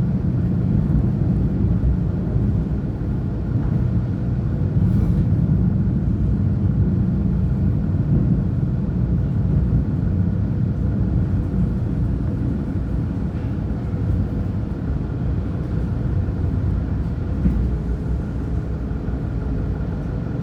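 CP diesel multiple unit UDD 0467 running along the line, heard from on board: a steady low rumble with faint steady whining tones over it.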